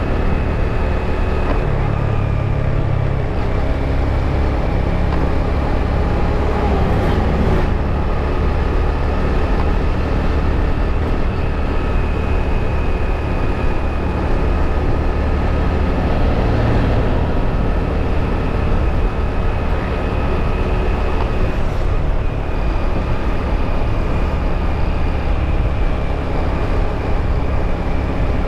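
Motorbike riding at a steady pace: the engine's steady drone under a heavy low rumble of wind and road noise on the camera microphone.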